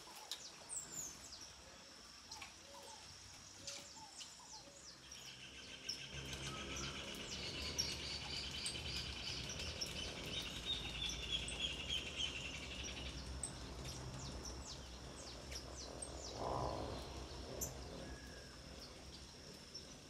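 Small wild birds chirping and calling around hanging seed feeders, with a fast trilled song from about five seconds in that stops near thirteen seconds. A low rumble comes in about six seconds in.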